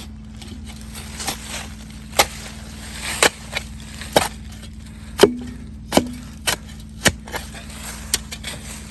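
Shovel blade striking and scraping into packed dirt, about once a second, digging out a buried engine.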